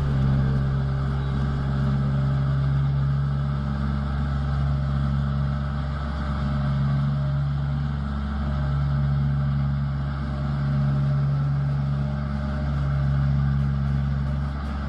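Engine of a farm machine running steadily at constant speed.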